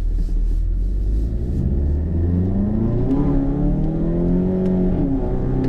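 Volkswagen MK7 GTI's turbocharged 2.0-litre four-cylinder with a Cobb Stage 3 tune and 3-inch catless downpipe, accelerating. The engine note climbs steadily in pitch for a couple of seconds, then drops near the end.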